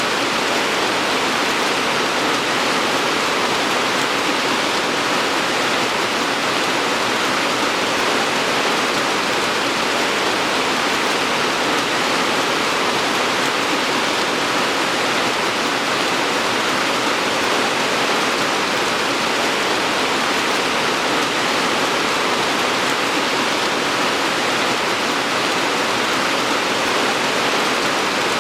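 Steady, dense rainfall: an even hiss of rain with no distinct drops, thunder or changes.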